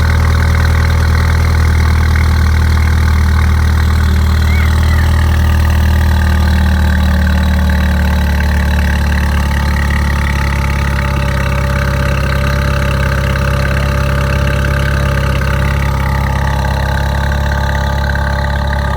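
Mini Cooper S F56's turbocharged four-cylinder engine idling steadily through an aftermarket Remus V2 exhaust system.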